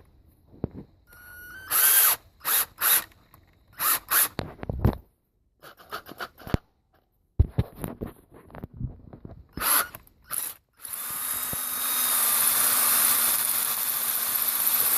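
Cordless Ryobi drill driving a general-purpose bit into a broken exhaust manifold bolt: several short trigger bursts, then a steady run of drilling from about two-thirds of the way in.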